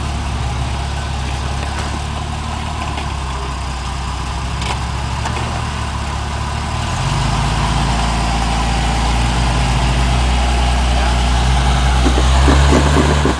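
Off-road 4x4's engine running at low revs, getting louder from about halfway through.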